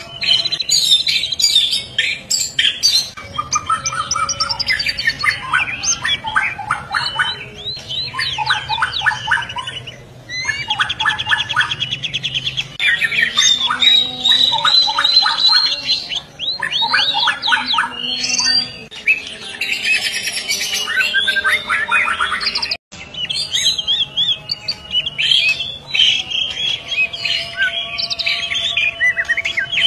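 Murai batu (white-rumped shama) singing continuously: a long, varied song of rapid repeated notes, trills, whistled glides and harsh notes, with only short pauses between phrases.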